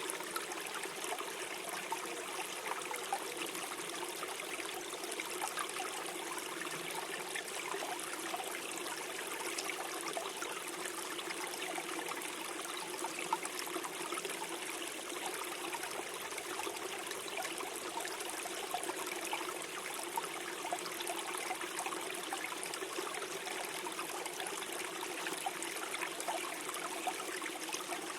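Small stream flowing and trickling over stones, a steady gurgle.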